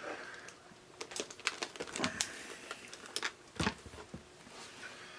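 Irregular light clicks and taps of small parts and tools being handled on a workbench, the loudest a little past halfway.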